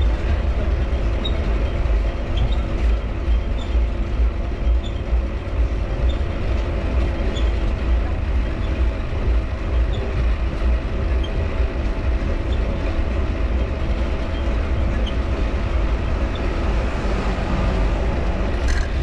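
Mifa folding bike ridden along: a heavy rumble of wind and tyres, the steady whir of the wheel-driven dynamo, and faint squeaks from the cranks about once a second.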